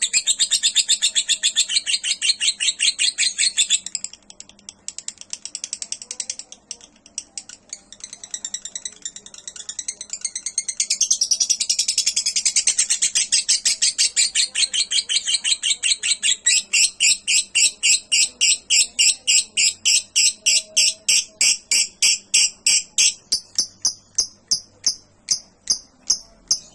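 Lovebird singing a long, fast, high chattering song. The song eases off for a few seconds, builds again, and near the end breaks into evenly spaced chirps about three a second before stopping.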